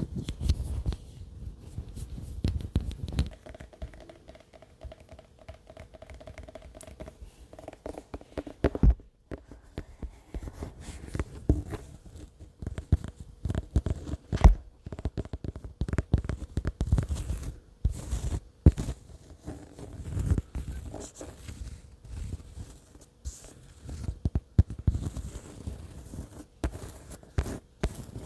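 Close-miked ASMR tapping and scratching: quick, irregular fingertip and fingernail taps on objects right at the microphone, with dull low thumps among them and a few sharper knocks, loudest about nine and fourteen seconds in.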